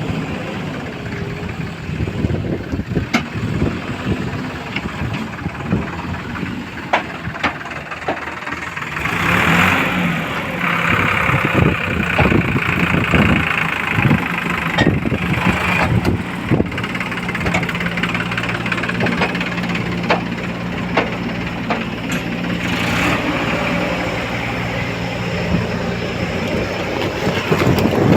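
Diesel engines of a backhoe loader and a tractor running while the tractor is loaded, with scattered knocks and clanks. The engines get louder about nine seconds in and hold a steady hum until near the end.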